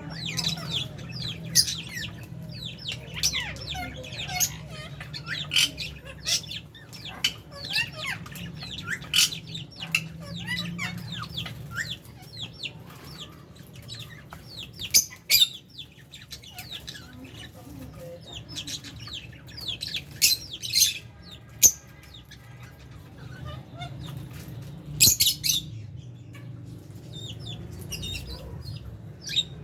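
A flock of lovebirds and budgies chattering, a dense stream of short, sharp high chirps and squeaks with a few louder calls, over a steady low hum.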